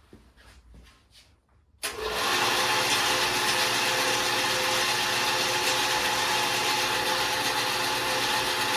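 A few faint clicks, then about two seconds in a 1952 Delta-Milwaukee Homecraft 10-inch band saw is switched on and its motor and blade run steadily at speed on freshly fitted urethane wheel tires.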